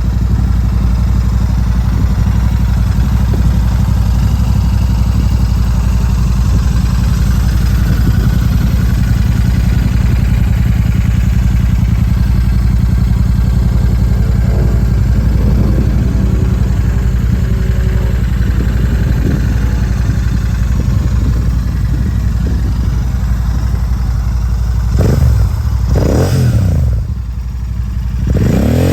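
Royal Enfield Shotgun 650's parallel-twin engine idling steadily through an aftermarket exhaust, then revved in a few quick throttle blips near the end.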